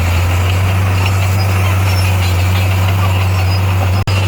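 Heavy diesel engine of a Komatsu D58A bulldozer running steadily with a deep, even hum. The sound cuts out for an instant near the end.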